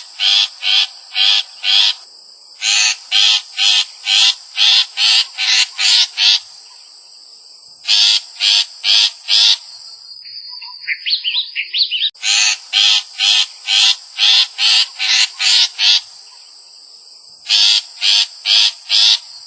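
Harsh animal calls repeated about three a second in bouts of several seconds, over a steady high-pitched whine. Short quick chirping notes come in the gaps between bouts.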